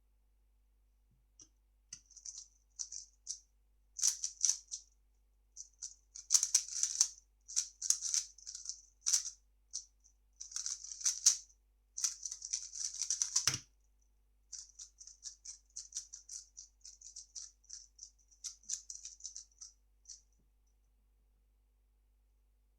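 3x3 speedcube being turned fast by hand: bursts of quick plastic clicking and clacking from the layer turns, with one short knock about halfway through. The clicking stops about two seconds before the end.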